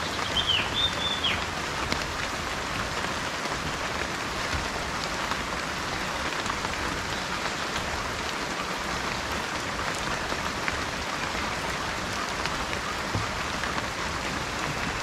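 Steady rain falling and pattering, with a short high bird call in the first second.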